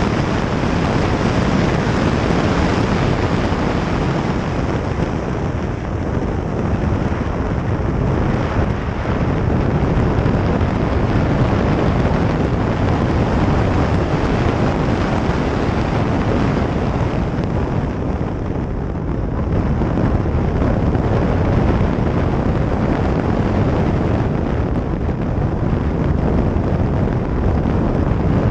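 Onboard sound of a car lapping a race track at speed: loud, steady wind rush on the microphone with road and engine noise under it.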